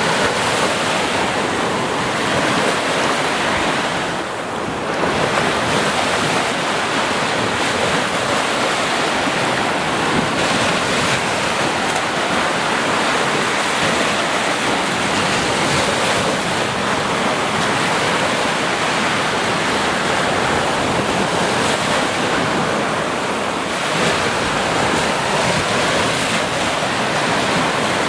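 Sea waves washing onto a beach: a steady, dense surf, with a short lull about four seconds in.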